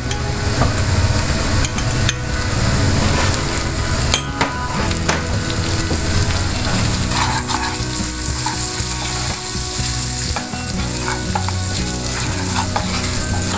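Crushed garlic sizzling in melted butter in a frying pan, stirred with a wooden spoon, with a few light knocks in the first half.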